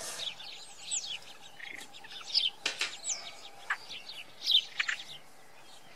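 Small birds chirping: quick, falling chirps repeated irregularly, with a few sharp clicks among them.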